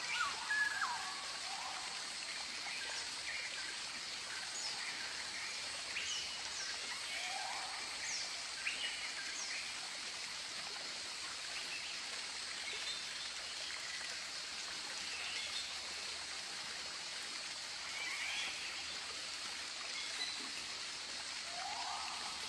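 Tropical birds calling, many short chirps, whistles and gliding calls scattered throughout, the loudest in the first second, over a steady hiss.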